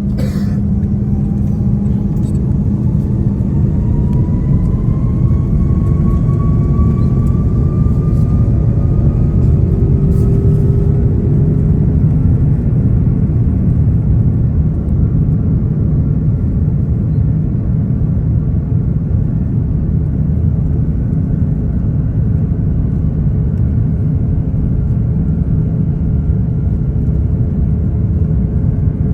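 Airbus A330 jet engines heard from inside the cabin, spooling up with a rising whine over roughly the first ten seconds and then holding steady above a heavy, loud rumble, as when thrust is set for the takeoff roll.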